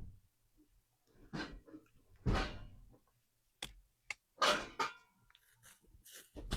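Kitchen drawer under the stove and pans being rummaged through: a series of separate knocks and scrapes, the loudest about two and a half seconds in.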